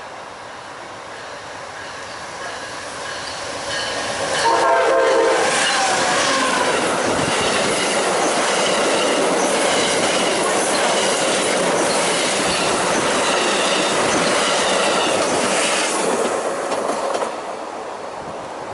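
A train approaching and passing close by on the main line, sounding a short blast of its multi-tone horn about four and a half seconds in, then a long steady run of wheels and cars on the rails that fades near the end.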